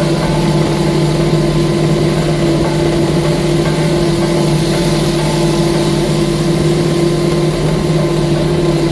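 Engine of a 6-ton skid steer track loader running at a steady speed, with an even hum that does not rise or fall.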